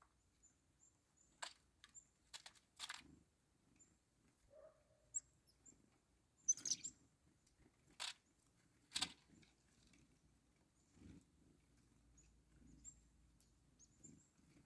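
Faint, short high chirps from black-capped chickadees, with a handful of sharp clicks or taps, the loudest a little past the middle.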